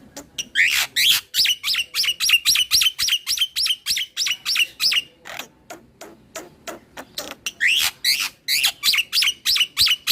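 Black-winged myna (jalak putih) singing in fast runs of sharp chirps, about five a second, each swooping up then down. The runs come in two bursts, with dry clicking notes between them in the middle.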